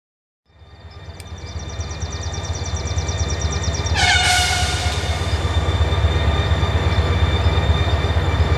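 Train approaching with a steady low rumble that grows louder, and a short horn blast about four seconds in. A rapid high-pitched ticking runs through the first half.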